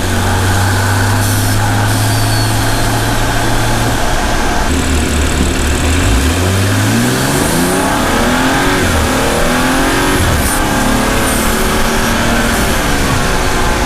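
BMW M235i's turbocharged 3.0-litre straight-six exhaust as the car drives: the engine note holds steady for about four seconds, then climbs in pitch as it accelerates from about six seconds in, dips briefly like a gear change near ten seconds, and rises again before settling.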